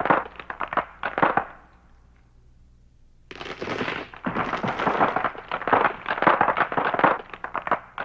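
A rapid, dense string of sharp pops and crackles in two runs: one that dies away about a second and a half in, then a longer one that starts abruptly after a short pause.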